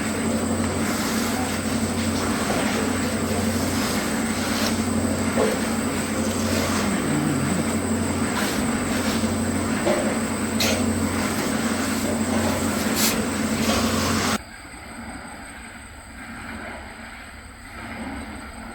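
Steady mechanical running noise, a low hum with a thin high whine and a few clicks, that cuts off abruptly about fourteen seconds in and leaves a quieter background.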